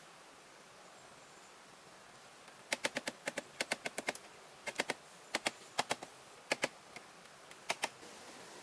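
A quick, irregular series of sharp light clicks or taps, often in pairs and little groups, starting about three seconds in and stopping near the end.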